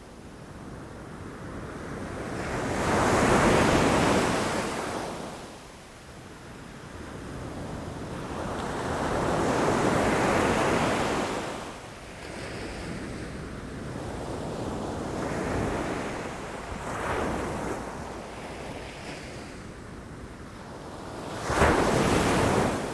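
Ocean waves crashing against rocks, the surf rising and falling in repeated surges. The sharpest and loudest crash comes near the end.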